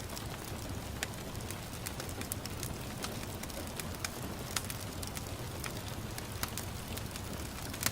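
Wood fire burning in a fireplace: a steady low rumble of flames with irregular crackles and a few sharper pops, one of the loudest near the end.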